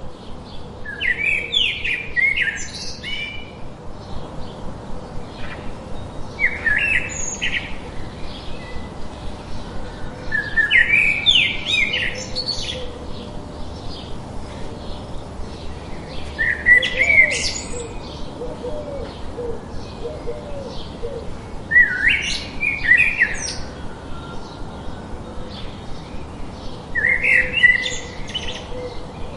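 Birds singing: a bright chirping phrase of a second or two repeats about every five seconds, over a steady run of quick, short chirps, about two a second.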